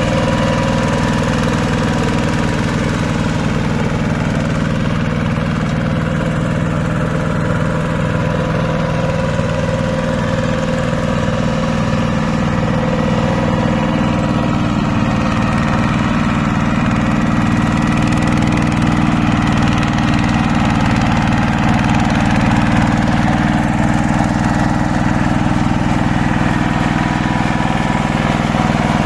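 Hand tractor engine running steadily.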